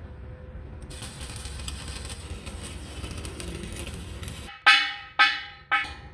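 Three sharp ringing metal strikes about half a second apart, each dying away quickly, like hammer blows on steel, after a few seconds of steady hiss.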